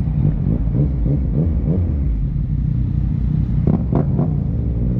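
Yamaha MT-09 Gen 2's three-cylinder engine through an Akrapovic full exhaust system, with a tune, riding in traffic. The revs rise and fall repeatedly over the first couple of seconds, then it settles into a steady rumble.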